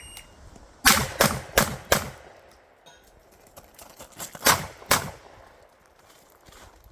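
A shot timer gives a short electronic start beep, then a 12-gauge Beretta 1301 semi-automatic shotgun fires four quick shots about a second in and two more near the end, with small clicks and rattles between the strings.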